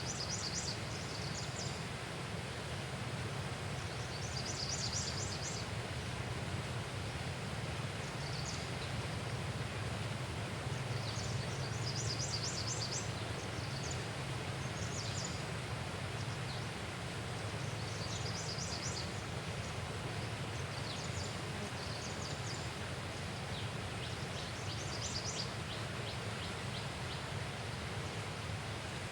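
Outdoor ambience: a steady background hiss with a low hum, and small birds chirping in short rapid high-pitched runs every few seconds.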